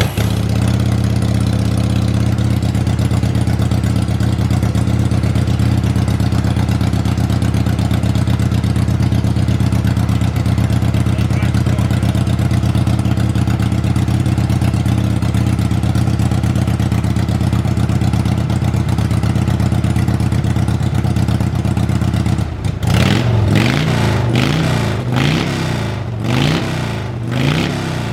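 Harley-Davidson V-twin motorcycle engine running steadily at idle just after being kick-started, then, about three-quarters of the way through, revved up and down in repeated throttle blips.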